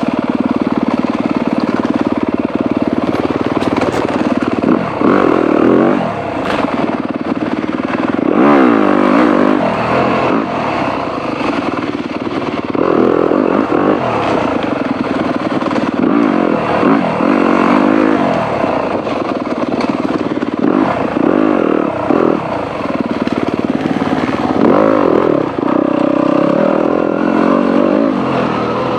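Dirt bike engine running under a rider on trail, its revs rising and falling again and again as the throttle is opened and closed.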